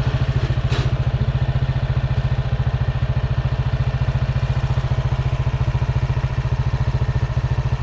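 Motorcycle engine idling close by, a rapid, even chugging pulse that holds steady throughout.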